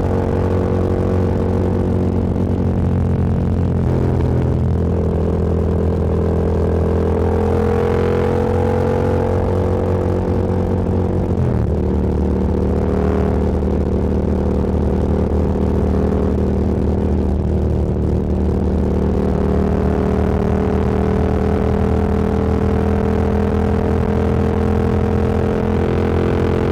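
Motorcycle engine running at a steady cruise, heard from the rider's seat, its pitch drifting gently up and down. The engine note changes abruptly about eleven seconds in.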